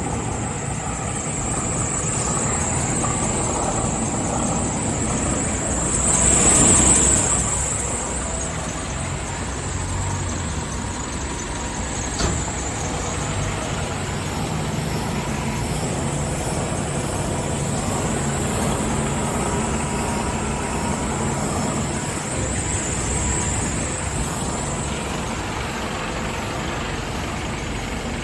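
Diesel truck engine idling steadily, the DAF XF 480's six-cylinder PACCAR MX-13. A louder swell of noise comes about six to seven seconds in, and a single sharp click about twelve seconds in.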